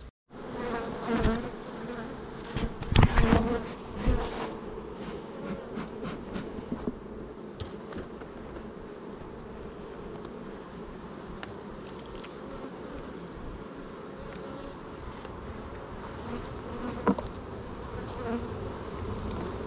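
Honeybees buzzing in a steady drone, with a few loud knocks about one, three and four seconds in and again near the end.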